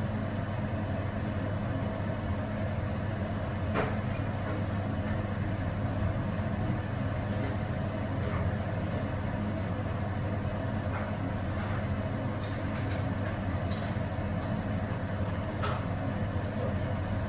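A steady low mechanical hum with even noise over it, and a few faint clicks and taps scattered through it.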